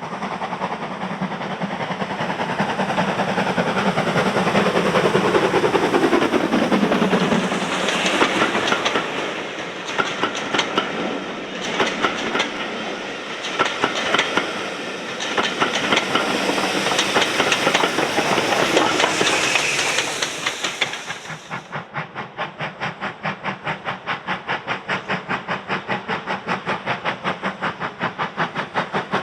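A train passing at speed, its sound dropping in pitch as it goes by, followed by a fast clatter of wheels over the rail joints. About 22 seconds in, the sound changes abruptly to a steady rhythmic beat of about four a second.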